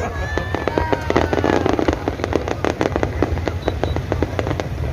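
Aerial fireworks going off in a fast, dense run of sharp bangs and crackles.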